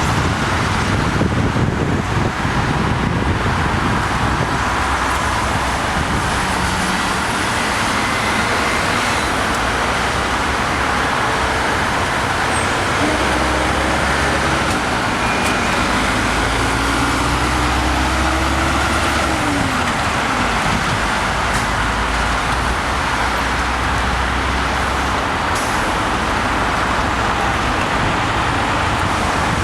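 Steady freeway traffic noise: the continuous rush of vehicles and tyres on the road, with one engine note rising slowly and then dropping off about two-thirds of the way through.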